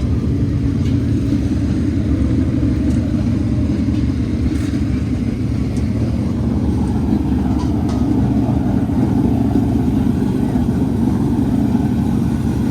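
410 sprint car's V8 engine running at a steady speed, a loud, even drone with no revving up or down.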